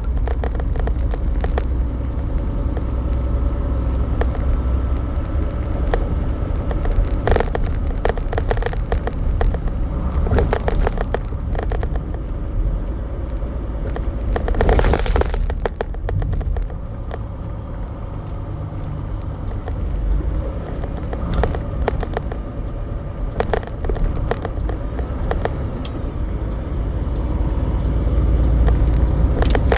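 Semi truck driving: a steady low engine and road rumble with frequent short knocks and rattles. A brief louder burst of noise comes about halfway through.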